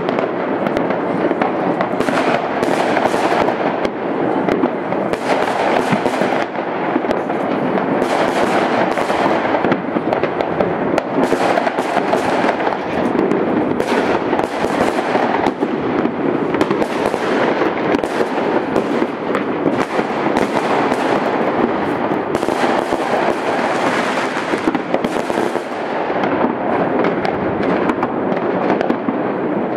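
Many fireworks and firecrackers going off together, a dense, unbroken crackle of overlapping bangs.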